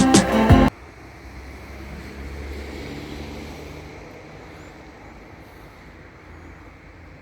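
Background music cuts off under a second in, leaving a low outdoor rumble that swells for a couple of seconds and then fades.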